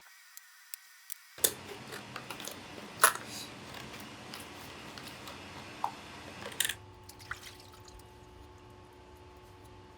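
Light, scattered clicks and taps of small tools and engine parts being handled during engine assembly. They stop after about seven seconds, leaving a faint steady hum.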